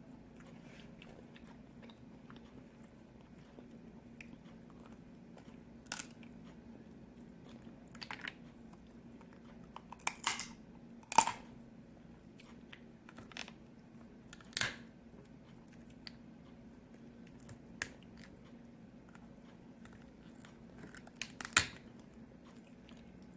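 A person eating: chewing, broken by short sharp crunches or cracks, about a dozen scattered through, the loudest a little past the middle and near the end.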